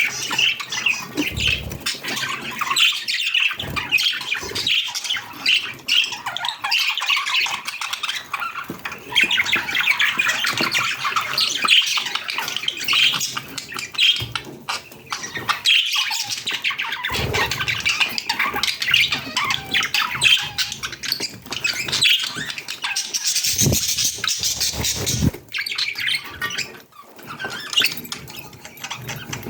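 Budgerigars chattering and squawking continuously in a busy warble, with a few dull thumps.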